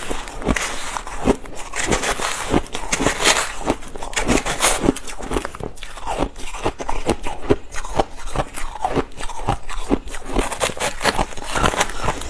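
Ice being bitten and chewed close to the microphone: a continuous run of irregular crunches and crackles, several a second.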